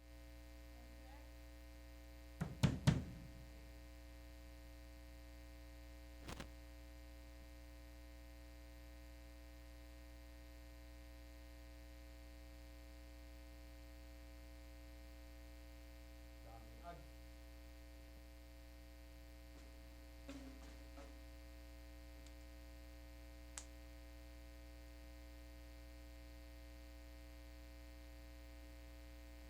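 Steady electrical mains hum, with a few short, scattered knocks: a quick group of three about three seconds in, then single faint ones later.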